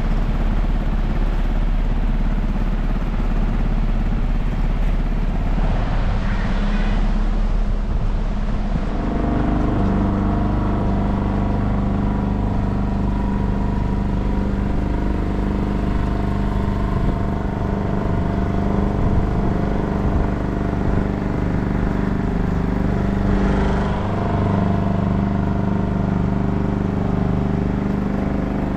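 A small boat's outboard motor running steadily as the boat travels along the river, its engine note shifting and settling into a steadier pitch about nine seconds in.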